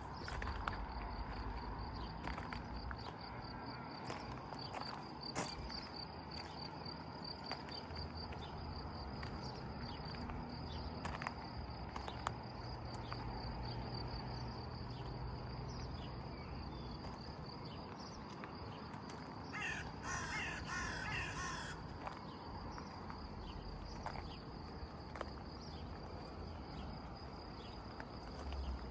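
An insect trilling steadily at a high pitch, with a crow cawing several times in quick succession about twenty seconds in.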